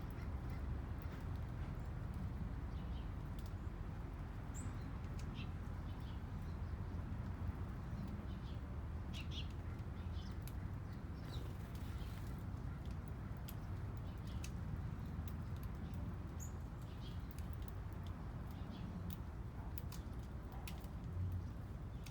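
Small birds chirping, with short high calls scattered irregularly throughout, over a steady low background rumble.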